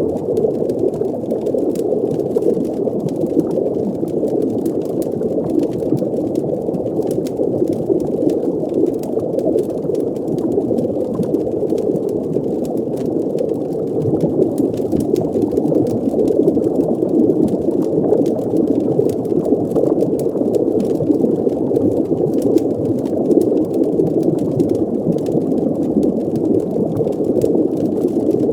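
Underwater ambience: a steady, muffled bubbling and rumbling water wash, with faint scattered clicks above it.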